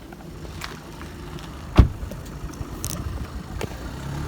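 Car running with a steady low hum heard from inside, a single loud thump a little under two seconds in, and a few light clicks.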